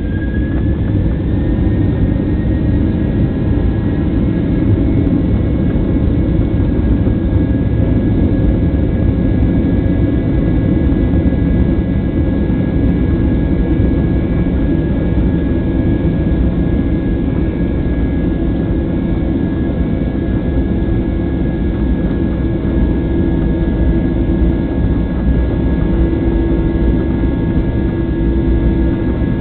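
Boeing 737-800's CFM56-7B jet engines running at high power during take-off: a loud, steady rumble with thin, steady high whines, one of which rises slightly in the first couple of seconds.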